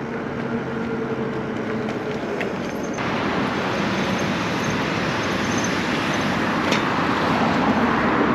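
Electric bike being ridden over dirt: a steady motor whine for the first couple of seconds, then a louder, even rush of wind and tyre noise from about three seconds in.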